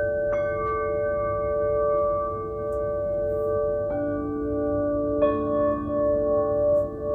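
Singing bowls struck one after another, about a third of a second, four seconds and five seconds in, each adding its note to long overlapping ringing tones that waver. The notes sounded are D and A, the heart and throat notes.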